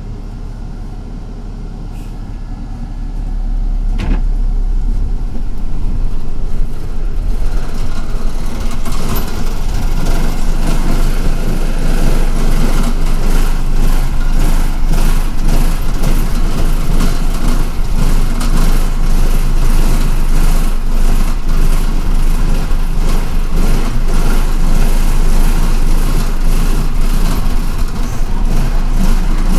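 City bus running, heard from inside the cabin: about three seconds in it gets louder as it picks up speed, then carries on as a steady engine rumble with road noise.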